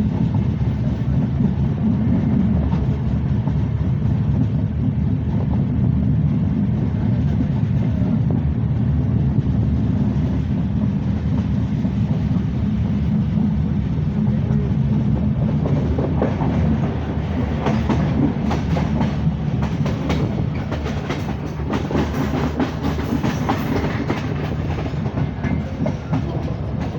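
Passenger express train running at speed: a steady low rumble of wheels on the track, with clicking and clattering from the rails and carriage growing more frequent about two-thirds of the way through.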